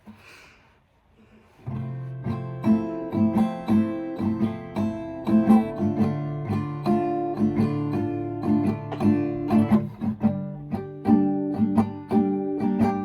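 Acoustic guitar playing a picked, chordal song intro, starting about two seconds in with a low bass note under repeating plucked notes.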